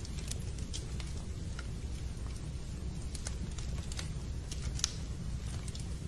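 Fireplace fire crackling: scattered sharp pops and snaps over a steady low rumble, with one louder snap about five seconds in.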